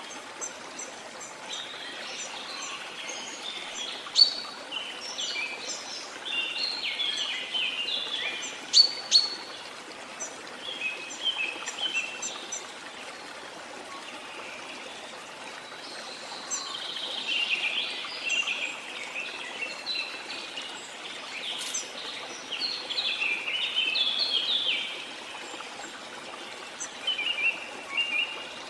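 Several birds singing and chirping in repeated bouts, with a few sharp chips about four and nine seconds in, over the steady rush of falling water.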